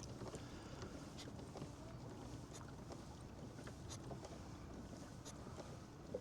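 A fishing kayak moving through calm water: faint lapping with scattered small drips and ticks against the hull.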